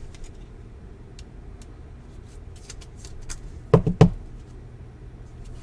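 Trading cards and foil pack wrappers being handled, with scattered light clicks, then two loud knocks in quick succession about four seconds in.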